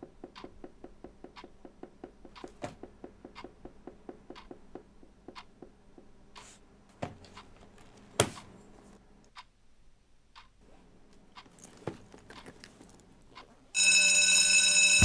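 Rapid, even ticking, about five ticks a second, thins out after about nine seconds into a few scattered knocks. About a second before the end, a loud ringing alarm with several steady tones cuts in suddenly.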